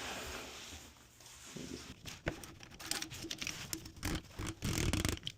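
Irregular clicks, knocks and rustling of plastic toilet-tank parts being handled and fitted together, most of them in the second half.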